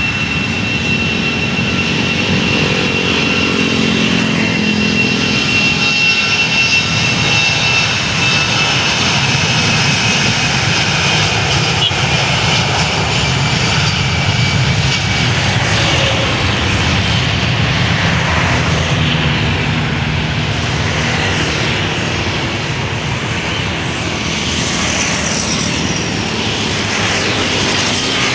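Airliner engines running loud and steady at close range: a continuous rumble with a high whine that slowly drops in pitch over the first half.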